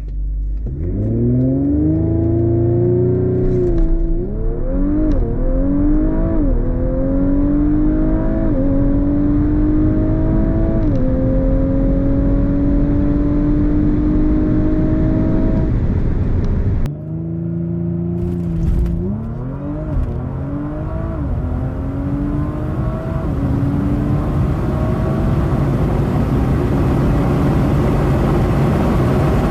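2019 Audi RS5's twin-turbo V6, running an 034 Motorsport Stage 1 ECU tune and intake, accelerating flat out from a launch. The engine note climbs repeatedly, with quick upshifts under the Stage 2 transmission tune that bangs into each gear. The sound cuts off abruptly a little past halfway. Another run of rising revs and upshifts follows, then steady road and wind noise.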